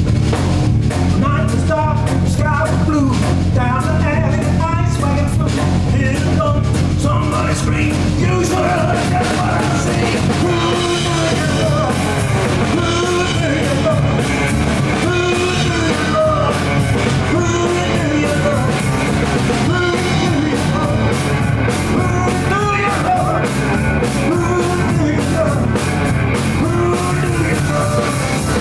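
A live blues-rock band playing, with a drum kit driving a steady beat under electric slide guitar, whose notes glide up and down in a repeating riff.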